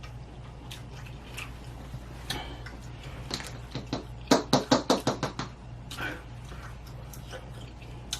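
Close-miked eating of spicy noodles: scattered wet mouth clicks and chewing, with a quick run of about eight louder smacks in the middle, over a steady low hum.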